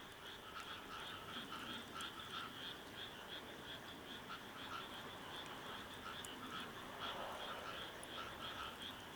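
A chorus of frogs calling, with rapid, steadily repeating pulsed croaks in two pitch bands, one middling and one higher, that keep going without a break.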